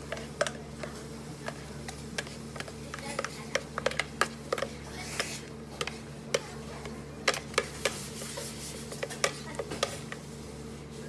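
Cafe work sounds: scattered light clicks and taps of cups, utensils and containers being handled, over a steady hum of cafe machines.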